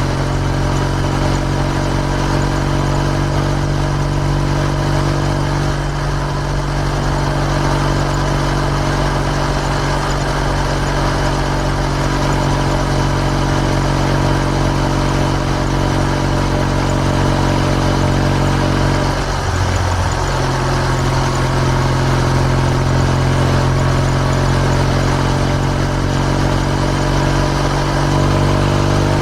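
Kawasaki W650's air-cooled parallel-twin engine running steadily through an R's Gear Wyvern Classic muffler. The note breaks briefly about two-thirds of the way through, then settles again, with a slight change in pitch near the end.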